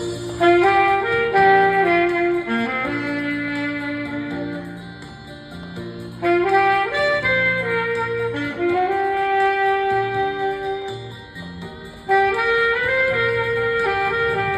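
Saxophone playing a slow melody in three phrases over an accompaniment. Each phrase enters sharply, about six seconds apart, and the accompaniment's low notes carry on between them.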